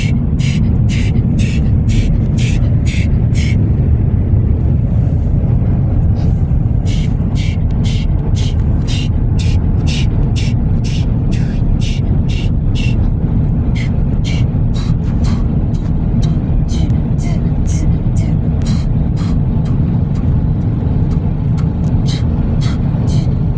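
Automatic car wash dryer blowers heard from inside the car: a loud, steady low rush of air. A fast, even ticking runs over it, pausing for a few seconds early on.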